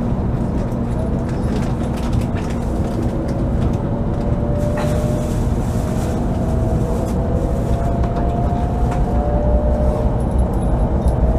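Shinkansen bullet train heard from inside the passenger car as it runs slowly through a station: a steady low rumble of the running gear, with an electric motor whine that slowly rises in pitch from a couple of seconds in as the train gathers speed.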